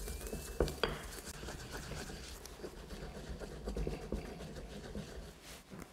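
Pestle grinding toasted Sichuan peppercorns and salt flakes in a mortar: irregular scraping and crunching, with a couple of sharp knocks just under a second in.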